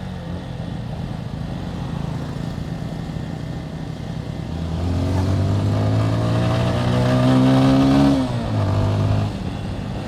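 Motorcycle engine running steadily under the rider, then accelerating from about four and a half seconds in with a rising pitch, and falling off sharply just after eight seconds as the throttle is closed or a gear is changed.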